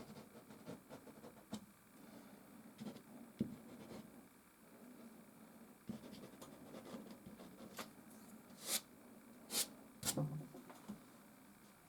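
Soft pastel stroking and scratching across canvas in short, irregular strokes, with three sharper, louder scrapes near the end.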